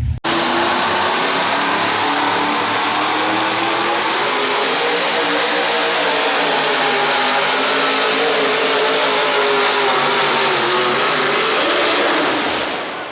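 A pulling vehicle's engine at full throttle during a pull run: a loud, steady engine noise that starts abruptly, with its pitch wavering and rising slightly near the end before it fades off.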